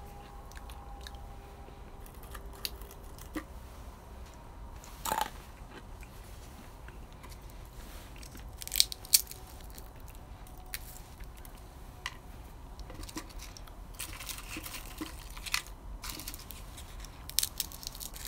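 Crunching and chewing of wood-fire-roasted beans: irregular crisp cracks, with a couple of louder sharp snaps about nine seconds in.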